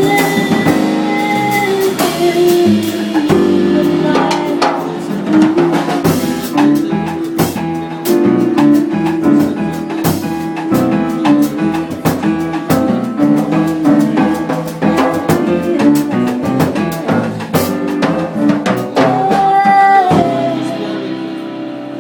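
Live Latin jazz band playing the ending of a song arranged as a Cuban changüí: busy drum kit and percussion hits over the band, with a long held note near the start and another near the end. The last chord then rings out and fades about 20 seconds in.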